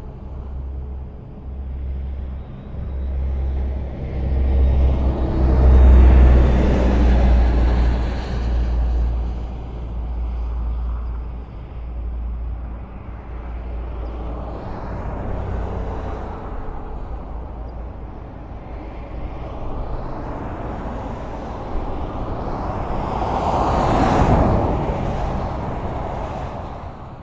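Highway traffic: a continuous rumble of engines and tyres, with vehicles swelling louder as they pass. The loudest passes come about six seconds in and again near the end.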